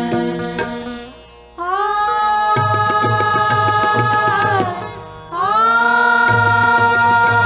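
Live Indian classical accompaniment for Kathak dance. A voice holds two long sung notes, each sliding up into pitch at its start, about one and a half seconds and five seconds in. Tabla-style drum strokes play rapidly beneath.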